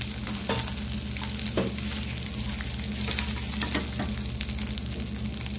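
Prawns sizzling in hot oil in a nonstick frying pan, a steady hiss with many sharp crackles and pops as they are scooped out with a silicone spoon.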